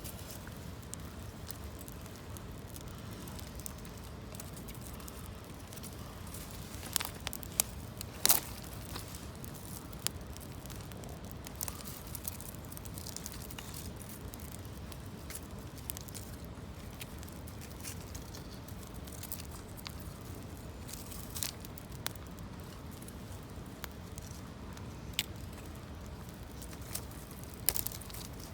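Wood campfire of branches burning, with scattered sharp crackles and pops, the loudest a few seconds in and near the end, over a steady low rushing background.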